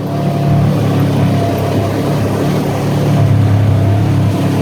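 Turbocharged Polaris RZR side-by-side engine running steadily while driving, a little louder from about three seconds in.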